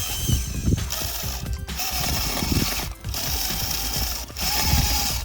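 Small DC gear motor of a homemade RC tractor whining with gear clatter as it works the trolley's tipping lift under a load of wet sand. The sound breaks off abruptly three or four times.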